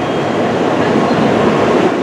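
Tokaido Shinkansen train pulling into the platform, a loud, steady rush of running noise from the train cars.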